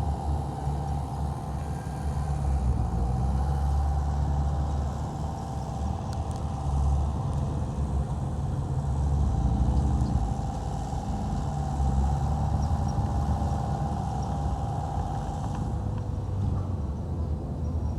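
Heavy diesel earthmoving machinery running: a deep engine drone that swells and eases, with a steady higher whine that fades out near the end.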